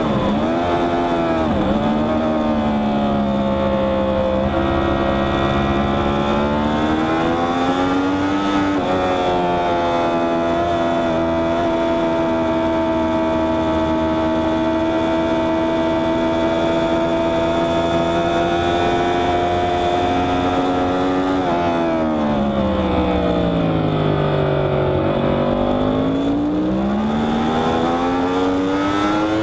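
Yamaha R1's crossplane inline-four engine heard from on board at track pace, with wind rush. Its pitch dips and climbs in the first few seconds, drops a step, holds steady for a long stretch, then falls away and climbs again near the end.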